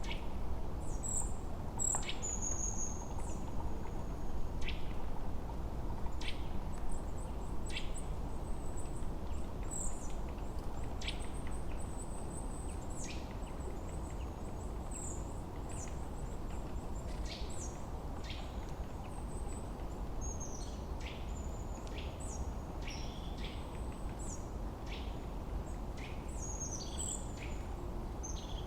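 Wild birds chirping: many short, high calls and quick downward-sweeping notes, one or more about every second, over a steady low rushing background.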